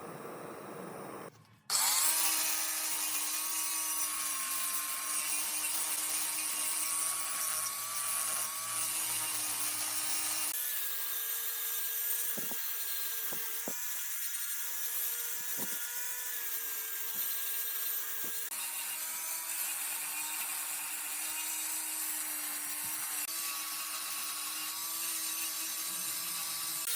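Wood lathe running, with a turning tool cutting into the spinning wood: a steady motor hum under a hissing, scraping cut. It starts abruptly about a second and a half in and shifts in pitch a couple of times.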